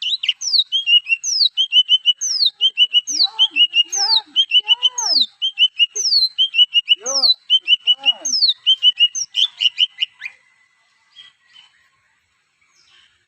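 Cucak ijo (green leafbird) singing loudly. It repeats the same phrase roughly once a second: a high downward-sweeping whistle followed by a quick chattering trill. The song stops about ten seconds in. Fainter, lower arching calls sound underneath in the middle.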